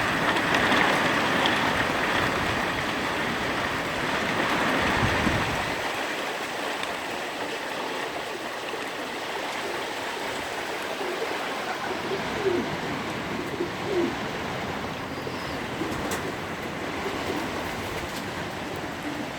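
Hail falling steadily, a dense hiss of hailstones striking, lighter after about six seconds. Pigeons coo faintly in the second half.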